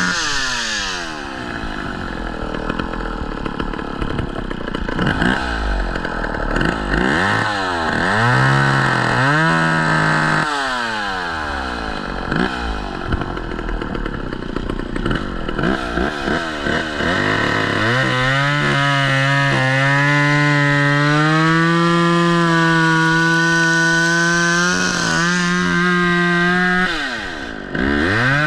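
Gas chainsaw run at full speed, dropping to idle, blipped a few times, then held at full throttle for about nine seconds with its pitch slowly rising, as in a long cut through a fallen tree, before it drops off near the end.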